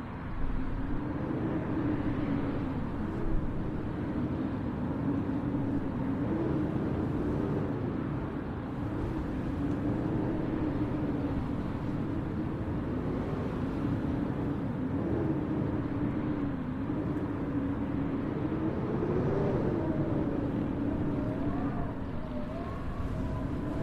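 Snowstorm street ambience: a continuous low rushing noise with a hum that wavers up and down in pitch throughout, and a few higher wavering tones near the end.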